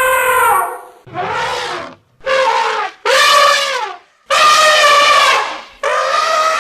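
Elephant trumpeting: a string of about five short, brassy trumpet calls in quick succession, each dropping in pitch as it ends, with brief pauses between them.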